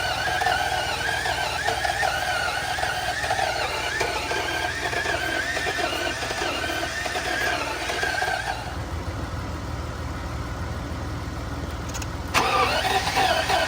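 BMW 750iL V12 being cranked on the starter without catching, a steady wavering crank. The cranking stops about eight and a half seconds in, leaving a low rumble, then starts again suddenly near the end.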